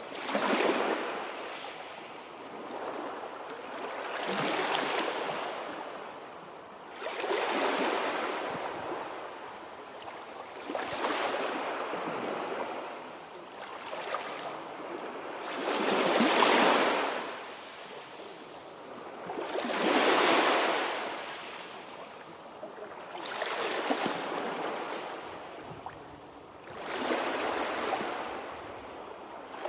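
Sea waves washing ashore one after another, each a surge of hissing surf that rises and falls away about every three to four seconds.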